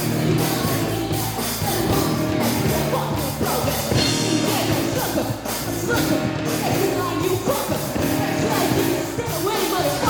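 Live rock band playing loudly: drum kit with crashing cymbals, electric guitars and bass, with a voice singing over them.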